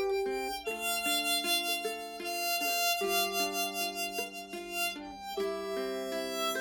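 Harmonica playing a slow melody in held chords, accompanied by ukulele.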